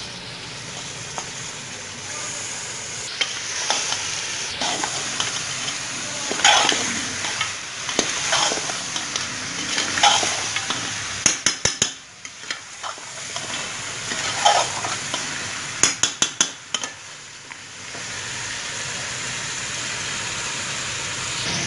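Raw chicken pieces sizzling as they fry in oil and masala in a metal pot, stirred with a metal ladle that scrapes against the pot in irregular strokes. Two quick runs of sharp clinks come about halfway and two-thirds of the way through.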